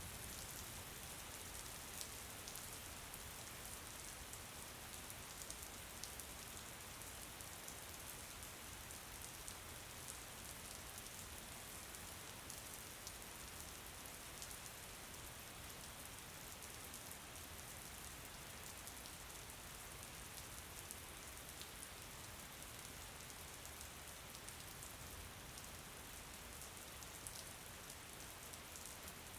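Steady, faint rain with a constant hiss and many small scattered drop ticks.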